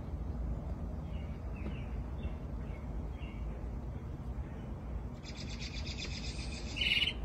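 A bird calling: a few faint short chirps, then a rapid trill of quickly repeated notes about five seconds in, ending in a brief louder call. A steady low rumble runs underneath.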